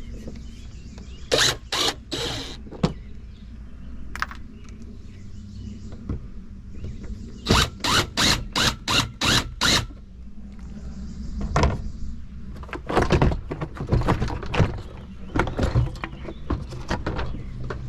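Hand tools knocking and scraping on the metal of a dishwasher being taken apart, in short sharp strokes. There are a few strokes early on, a quick even run of about six midway, and scattered knocks toward the end.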